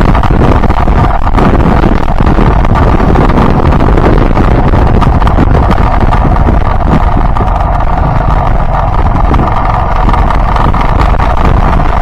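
Wind buffeting the microphone over the steady running of a Yamaha Byson motorcycle's single-cylinder engine as it is ridden along, loud and unbroken throughout.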